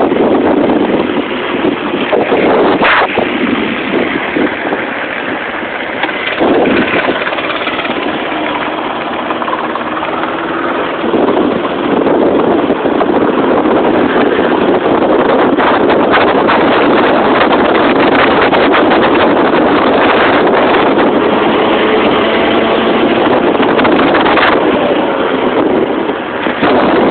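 Small motorbike engine running while riding, its pitch drifting up and down, with heavy wind buffeting the microphone.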